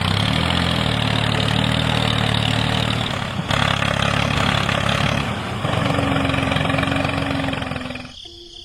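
The small engine of a homemade mini tractor running steadily. The sound changes abruptly twice and fades away near the end.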